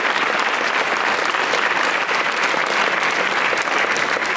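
Concert audience applauding steadily, dense clapping of many hands, as a performer is welcomed to the stage.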